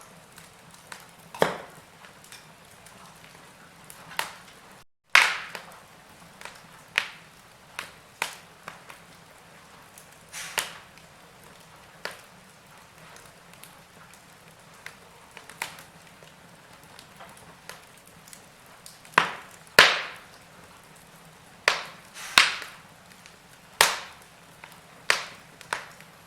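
Wood fire in a fireplace crackling: irregular sharp pops and snaps over a faint steady hiss, with a brief dropout about five seconds in.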